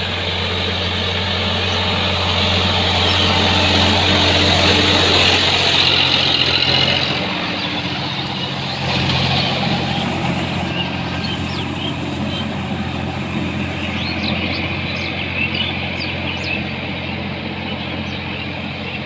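Sonalika tractor's diesel engine running steadily, a little louder for the first seven seconds and then easing off slightly. Short high chirps sound over it in the second half.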